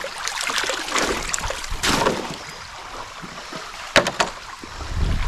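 Legs wading through cold creek water, sloshing in uneven surges, with a sharp knock about four seconds in.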